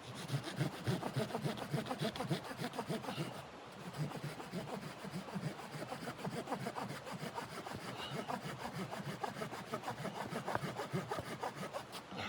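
Hand saw cutting wood in steady, rapid rasping strokes, with a short break about three and a half seconds in.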